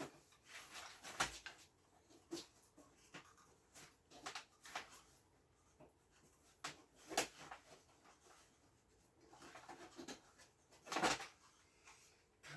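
Scattered light clicks, taps and rubs of hand work on metal mounting parts, with a louder knock about eleven seconds in.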